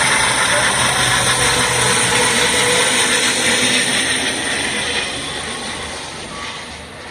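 Airlife medical helicopter's rotor and turbine noise, loud and steady, then fading over the last couple of seconds.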